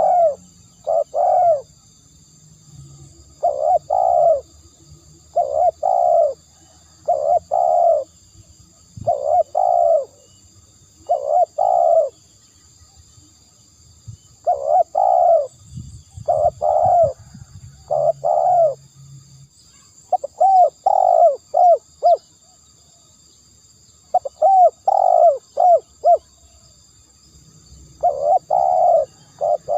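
Spotted dove cooing: phrases of two to four low, hollow coos, repeated every couple of seconds.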